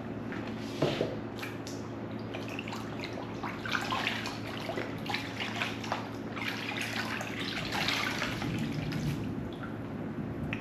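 Kitchen handling sounds: a run of short clinks, scrapes and wet, dripping sounds, busiest in the middle, over a steady low hum.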